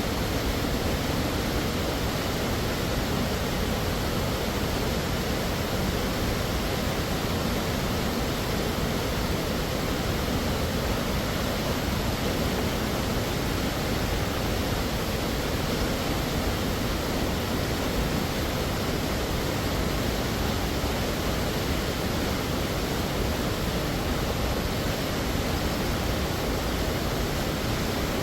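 Steady, unbroken rush of a large waterfall, a dense even wash of falling water with no distinct splashes or changes.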